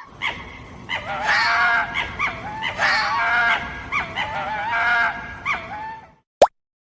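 A fox calling: repeated yelping calls in three longer bouts, with short single yelps between them. A brief rising blip follows near the end.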